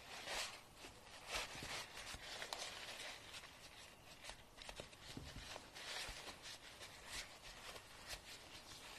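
Nail grinding: soft, uneven scraping strokes, roughly one a second, with a faint hiss between them.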